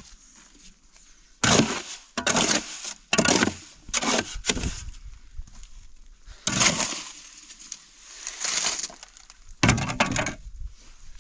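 A series of about eight loud crunching, breaking sounds at irregular intervals, each lasting a few tenths of a second.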